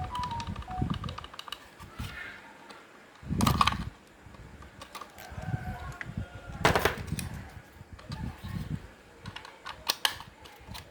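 Clicking and knocking of small hard parts being handled, with sharp knocks about three and a half seconds in, near seven seconds and again around ten seconds.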